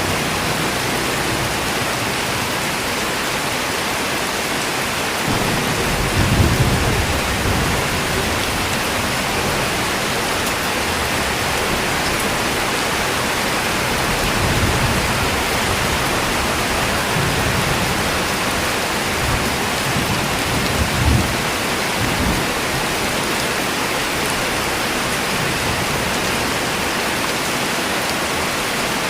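Steady rain, an even hiss, with low rumbles of thunder rolling in several times: the strongest about six seconds in, and others around the middle and about two-thirds through.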